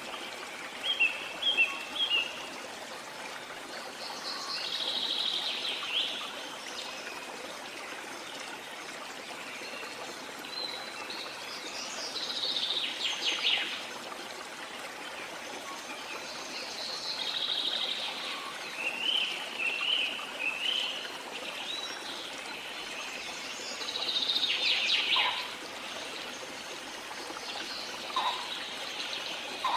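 Waterfall running as a steady rushing hiss, with wild birds chirping and trilling over it every few seconds.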